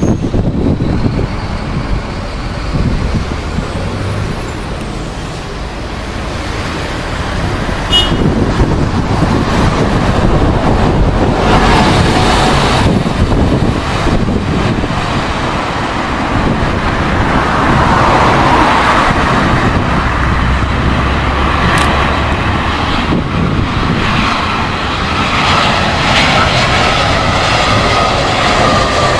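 Jet airliner engines rumbling, with a higher engine whine building over the last few seconds as the aircraft draws closer.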